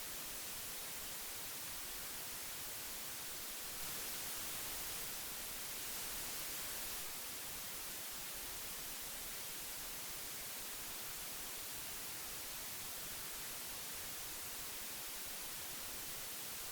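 Old tape hiss: a steady, even hiss strongest in the high end, swelling slightly and brightening for about three seconds from roughly four seconds in.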